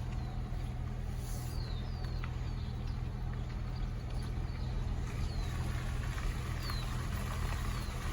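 Car running with a steady low hum of engine and road noise. Over it come short, high, falling bird chirps, repeated about once a second.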